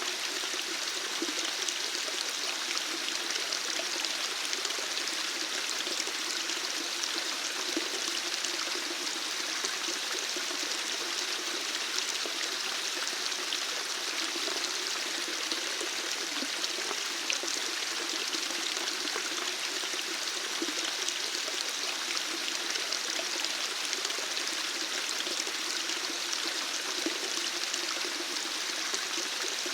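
Running water: a steady, unbroken rush of flowing water with no change in level.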